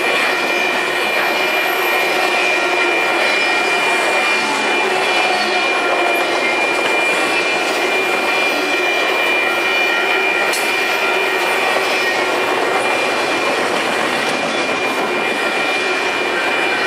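Double-stack intermodal freight train's well cars rolling past, the steady noise of steel wheels on the rails, with a thin steady high whine over it.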